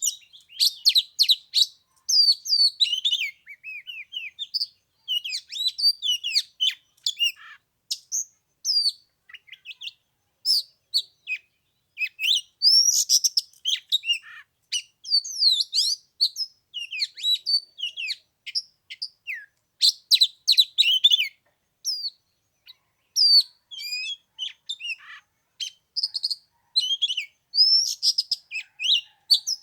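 Oriental magpie-robin singing, a continuous run of varied whistles, slurred notes and quick chirps broken by short pauses.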